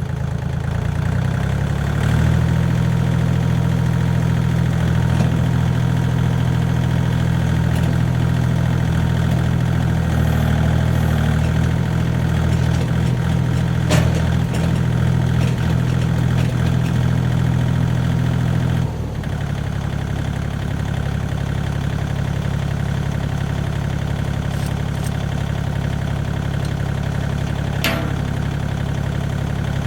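Kubota tractor's diesel engine running steadily, then easing back to a quieter, lower note about two-thirds of the way through. A couple of short metallic clanks sound over it.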